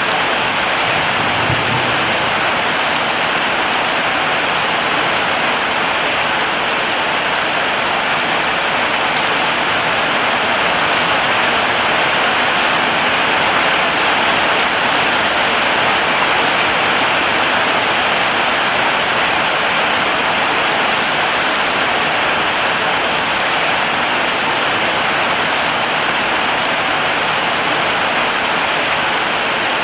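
Heavy rain falling steadily, an even unbroken hiss of rainfall with no pauses or distinct drops standing out.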